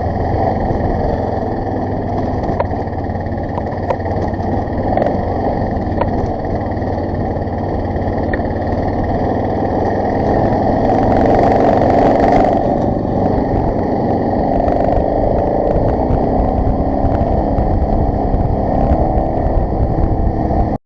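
BMW F650 GS motorcycle engine running continuously while riding over rough ground, with scattered sharp clicks and knocks. It gets louder a little past the middle, then cuts off suddenly at the end.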